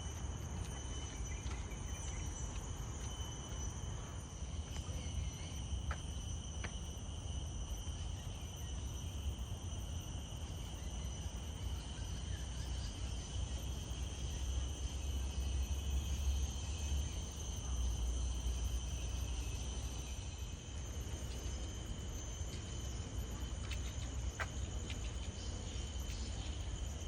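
Insects calling steadily, a constant high-pitched drone that holds two unchanging pitches, over a low rumble.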